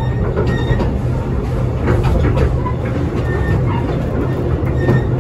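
Narrow-gauge railway carriage running along the track, heard from inside: a steady low rumble of wheels on rail, with occasional clicks as the wheels cross rail joints.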